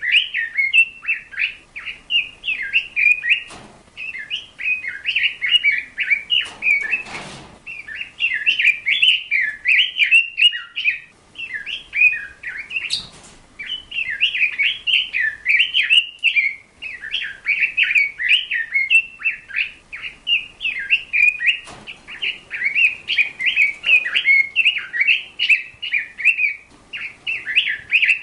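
A bird singing: a rapid run of twittering chirps, nearly unbroken, with a few short pauses and some faint knocks in between.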